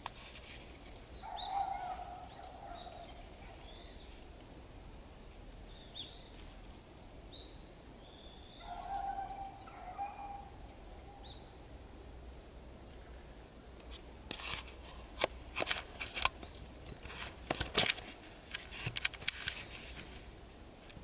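Outdoor ambience with scattered short, high bird chirps and two longer, lower calls, one near the start and one about halfway through. In the second half a run of sharp clicks and crackles comes and goes for several seconds.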